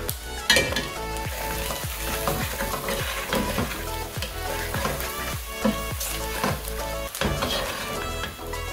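Tripe and onions sizzling as they fry in a pan with spices, while a utensil stirs them and knocks against the pan in repeated short clicks.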